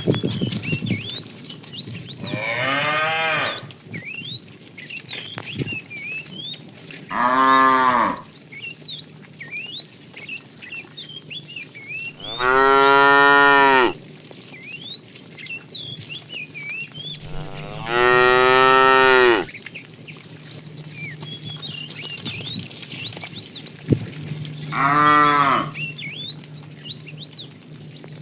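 Cattle mooing: five long, loud moos spaced about five seconds apart, with short high chirps between them.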